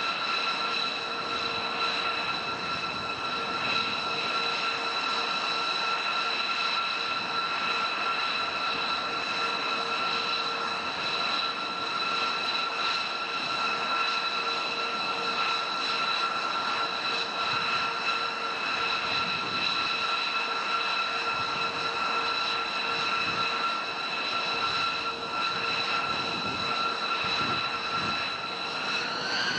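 Jet engine of a fighter aircraft running steadily: a constant rushing noise with a high turbine whine held at one pitch. Near the end the whine starts to rise as the engine spools up.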